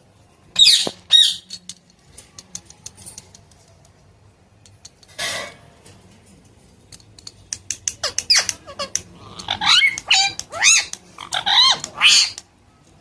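Pet parrot chirping and squawking: a loud harsh call about half a second in, a few soft clicks, then a run of quick chirps that slide up and down in pitch over the last few seconds.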